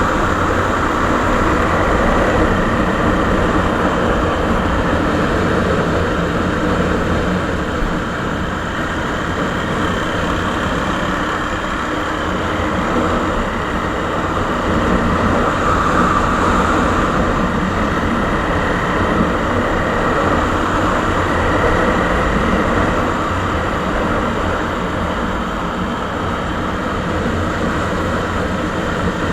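Suzuki Savage (Boulevard S40) motorcycle's 650 cc single-cylinder four-stroke engine running steadily through its original exhaust muffler, with only slight rises and falls in level.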